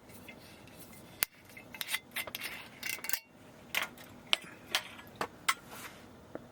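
A sharp knock about a second in, then a string of short clinks and rattles of a glass, ice and a whisky bottle being handled while a whisky on the rocks is made.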